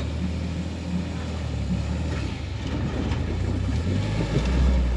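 Off-road rock-crawling truck's engine running as the rig creeps down a steep drop, a low steady rumble that swells near the end.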